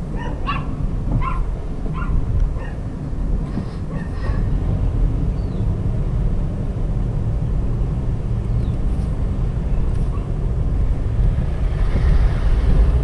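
Low, steady engine and road rumble from a car being driven, with a dog barking a few times in the first couple of seconds.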